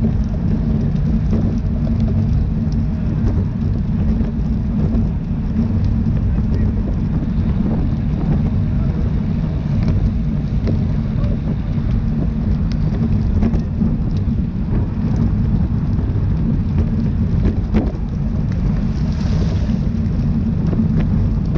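Wind buffeting a camera microphone carried by a rider at racing speed: a steady deep rumble, with scattered light clicks and rattles.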